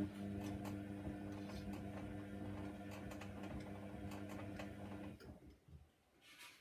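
Hoover Nextra washer dryer's drum motor turning the drum with a steady hum and light clicking from the load, then stopping and winding down about five seconds in: one tumble of the wash cycle.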